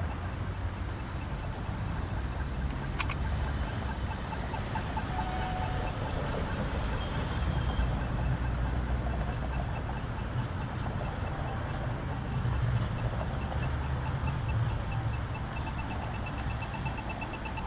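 Steady low rumble of road traffic on a city street. There is a sharp click about three seconds in, and a rapid pulsing electronic beep starts near the end.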